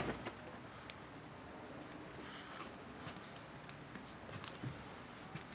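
Quiet background with a few faint, scattered small clicks and ticks.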